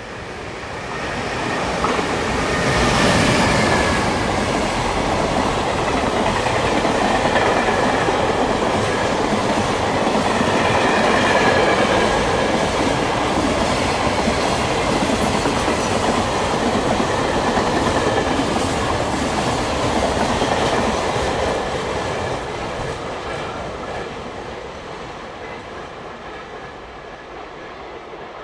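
JR Freight EF510 electric locomotive hauling a container freight train past at speed: the locomotive goes by about three seconds in, followed by a long run of container wagons rolling past on the rails, the sound fading away over the last several seconds.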